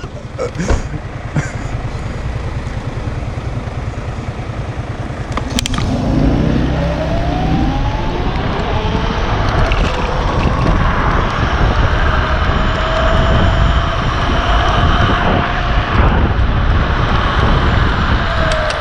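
A vehicle accelerating over a steady rumble of wind and road noise. A whine rises in pitch about six seconds in, holds steady for several seconds, then drops near the end.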